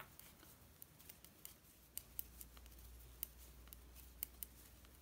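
Faint, irregular clicking of two knitting needles as knit stitches are worked in garter stitch.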